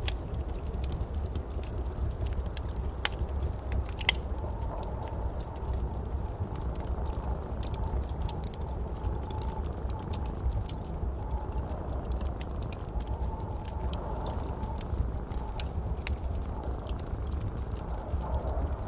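Wood fire in a fireplace crackling with scattered irregular pops over a steady low rumble, with two sharper pops about three and four seconds in.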